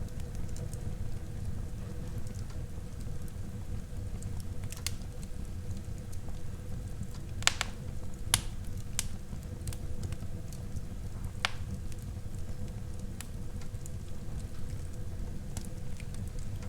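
Wood fire burning in a fireplace: a steady low rumble of flames with scattered sharp crackles and pops, the loudest two close together about halfway through and another a few seconds later.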